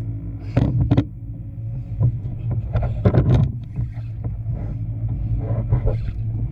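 A kayak at sea with a steady low hum. Knocks and clatters come about half a second in, again at about one second, and as a cluster around three seconds in, as gear is handled against the hull.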